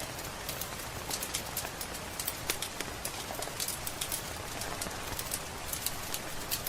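Wood fire crackling with irregular sharp pops, several a second, over a steady hiss of rain.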